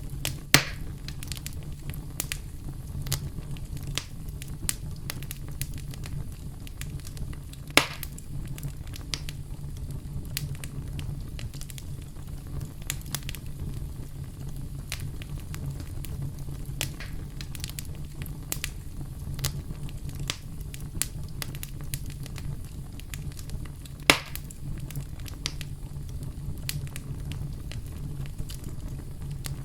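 Campfire crackling: a steady low rumble of burning wood with frequent small snaps and three louder pops, about half a second in, near 8 seconds and near 24 seconds.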